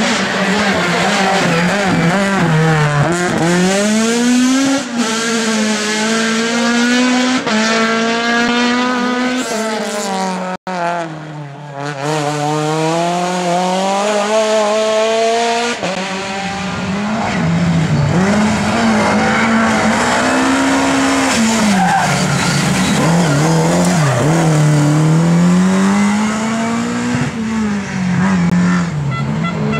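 Rally car engines revving hard, the pitch climbing and dropping again and again as the cars accelerate, change gear and brake into corners. The sound breaks off abruptly a few times and switches to another car.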